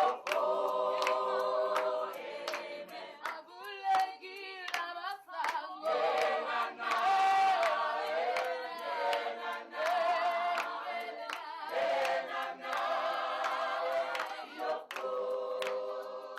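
A choir singing, with a sharp, steady beat of short strokes in time with the song; it begins to fade near the end.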